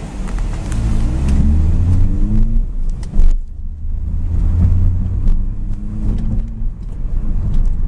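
Chevrolet Aveo's 1.4-litre 16-valve four-cylinder engine under hard acceleration from a standstill, heard from inside the cabin: the engine note rises, breaks off at about two and a half seconds as a gear is changed, with a thump just after, and then rises again through the next gear until it drops near the end.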